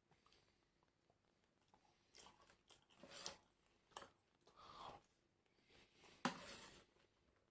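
A person eating close to the microphone, chewing with crunchy bites. The bites come irregularly after a quiet start, and the loudest crunch is near the end.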